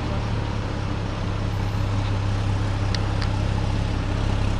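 Motor vehicle engine running steadily with a low rumble, and a couple of faint ticks about three seconds in.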